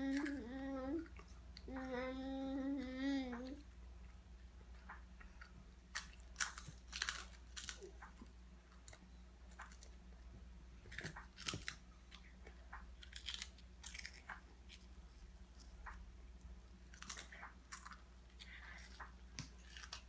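Toddlers chewing and crunching crackers, with scattered short crisp crunches. A small child makes two drawn-out voiced sounds in the first few seconds.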